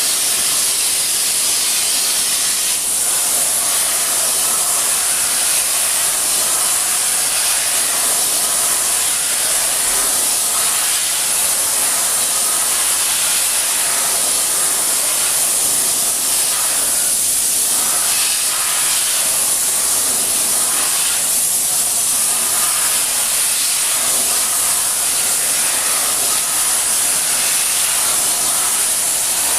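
A steady, loud hiss, brightest high up, with no beat or break.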